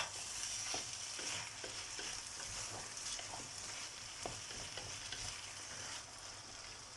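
Chopped vegetables and fish frying in a pan with a steady sizzle, with light taps and scrapes of a spoon stirring them so they don't stick.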